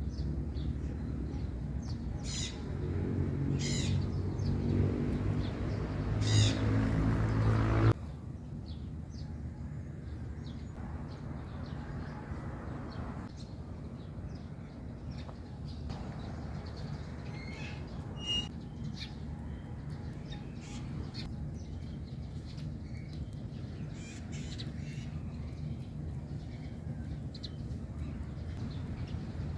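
Birds calling and chirping over a steady low background hum. The background drops abruptly about eight seconds in, after which scattered short chirps and light clicks continue.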